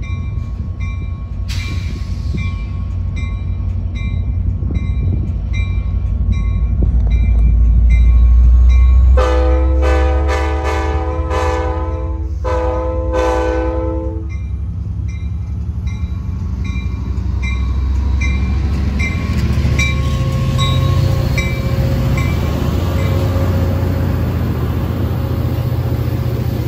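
A train passing with its locomotive rumbling low, while a bell dings at an even pace. Its chime horn sounds two blasts about a third of the way in, the first about three seconds long and the second shorter.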